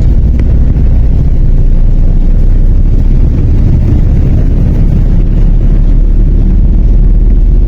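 MAZ 103 city bus heard from aboard: a loud, steady low rumble of the running engine and drivetrain. A faint steady whine comes in near the end.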